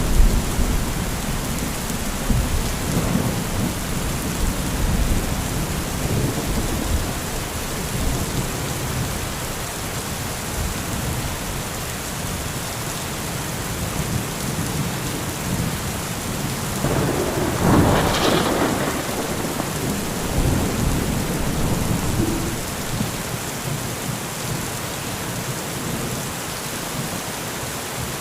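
Heavy rain falling steadily, with thunder: a deep rumble near the start that dies away, and a sharper, brighter thunderclap about two-thirds of the way in.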